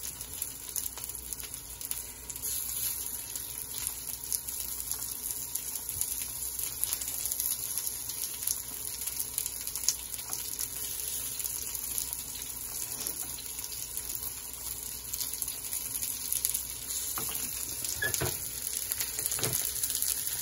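Chicken kabab patties shallow-frying in a little oil in a pan: a steady high sizzle with scattered small crackles.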